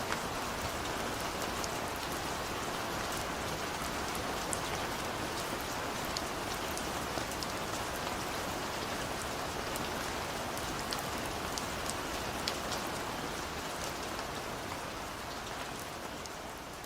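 Steady rain falling on a window, a dense hiss with scattered single drops ticking against the glass. It slowly fades out near the end.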